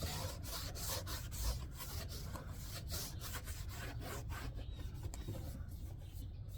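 A rag soaked in isopropyl alcohol being rubbed quickly back and forth over the car body where the quarter window's double-stick tape will sit, wiping off stuck-on dirt. The strokes ease off near the end.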